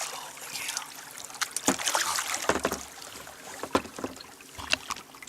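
Kayak being paddled: water splashing and trickling off the paddle, with a few sharp knocks and clicks against the boat.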